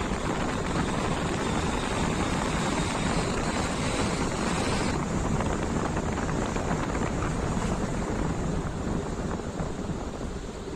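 A car driving on a wet road: steady tyre and road noise with wind buffeting the microphone. The high hiss dulls about halfway through.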